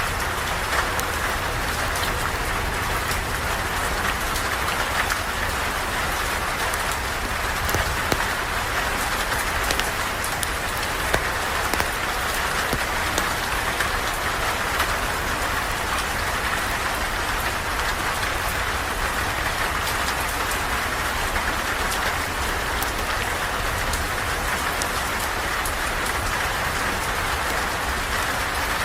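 Steady rain falling, heard from under a porch, a constant hiss with many scattered sharp taps of drops.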